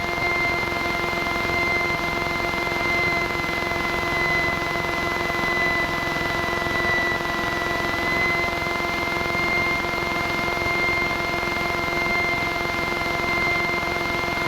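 Steady engine and propeller drone of a single-engine Piper light aircraft heard inside the cockpit, with a steady high whine over it.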